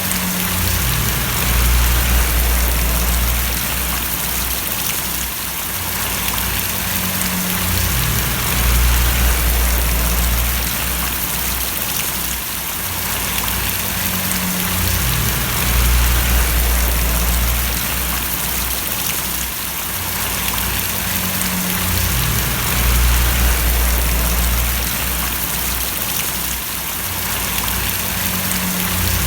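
Steady rain splashing, a dense even hiss. Underneath runs a low rumble that swells and fades about every seven seconds.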